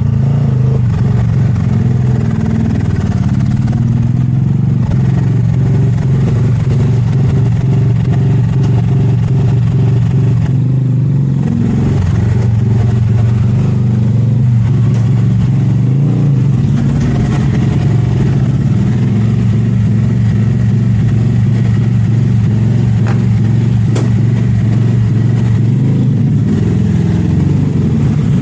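A vehicle engine running steadily throughout, with a brief shift in pitch about twelve seconds in.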